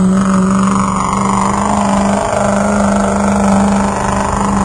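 Pulling truck's engine running hard at high, steady revs under load, holding a steady pitch with a brief dip about two seconds in.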